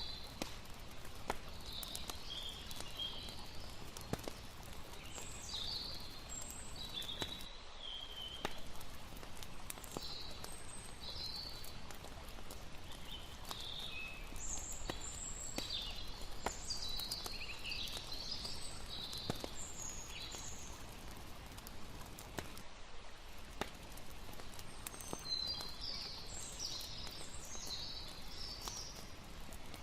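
Layered night ambience: a campfire crackling with scattered sharp pops over a steady low wash of lapping water, while high chirping calls of night insects and birds come and go in clusters.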